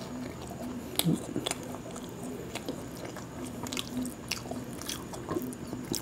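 A person chewing a mouthful of fried lentil fritter (dal bora), with scattered short wet mouth clicks and smacks.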